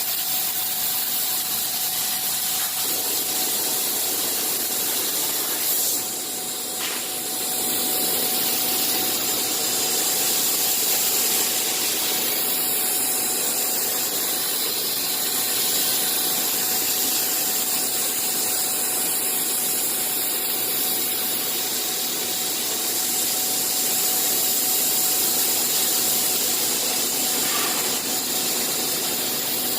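CNC machine running steadily: a continuous hiss with a constant tone under it, easing slightly about six seconds in.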